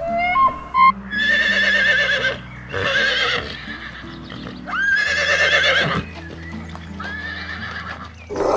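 Horse whinnying four times, each a shaky, wavering neigh lasting about a second, the last one quieter, over soft background music.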